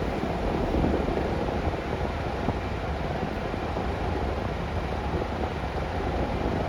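Steady ride noise heard from inside a Scania K360UA articulated city bus: the Scania DC9 diesel engine running, mixed with road and body noise.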